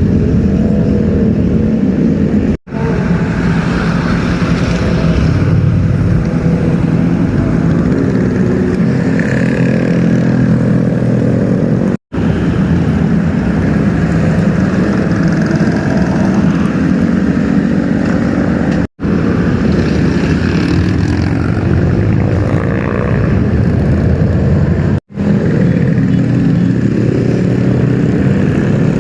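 Superbike engines running and revving, with pitch rising and falling, in a string of short clips. Four brief dropouts mark the cuts between them.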